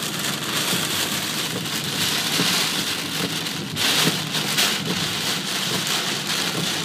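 Heavy storm rain pelting the car's windshield and body, heard from inside the cabin as a dense, steady hiss full of sharp individual hits.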